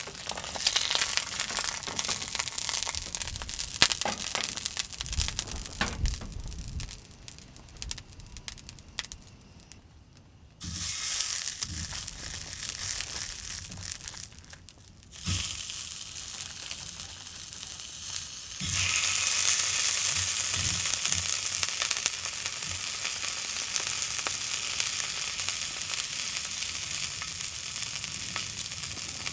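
Crinkling and handling noises, then food sizzling in a hot pan: the sizzle starts suddenly about ten seconds in and gets louder again near the two-thirds mark, as more food goes in.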